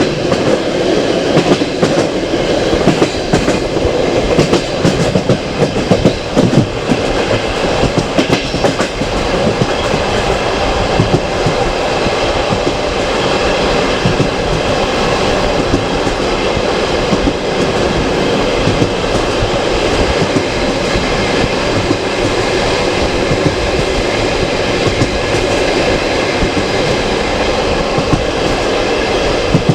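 Passenger coach running along the track: a steady rumble of wheels on rails with the clickety-clack of rail joints. There are sharper, denser knocks over the first several seconds, then a more even run.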